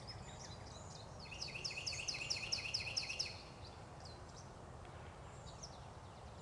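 A songbird singing a fast run of repeated chirping notes, about five a second, lasting about two seconds, then a few scattered calls over faint woodland background noise.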